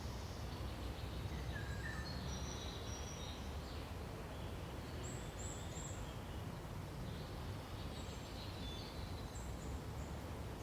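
Birds chirping: scattered short, high calls in several bursts, over a steady low background rumble.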